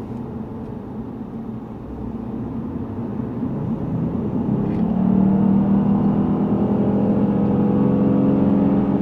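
Lexus GS450h's V6 hybrid drivetrain under acceleration from inside the car: low and quiet at first, then the engine note builds from about two seconds in and settles into a loud steady drone whose pitch creeps slowly upward.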